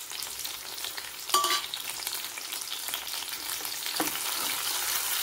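Chopped tomatoes sizzling in hot sesame oil with shallots in a kadai, stirred with a wooden spatula: a steady crackling fry, with a brief clink about a second and a half in.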